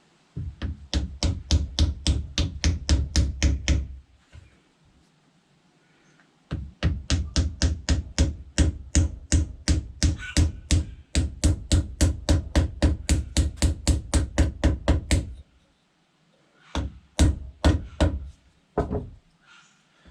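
Rapid, heavy wooden knocking, about five blows a second, in two long runs and a short burst near the end: a new spotted gum handle being driven home into the head of a block-splitting maul.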